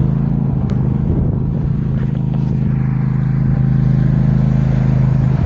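Engine running steadily close by, a loud even low hum that rises slightly in pitch at the start and then holds.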